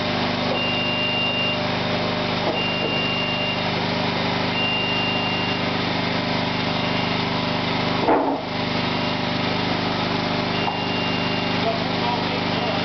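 A machine engine running steadily, with a high electronic beeper sounding in one-second beeps about every two seconds, typical of a tracked machine's travel or reversing alarm. A brief knock comes about eight seconds in.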